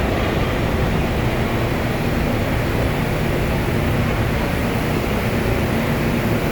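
New York City subway E train running at speed through the tunnel, heard from inside the car as a steady rumble and roar.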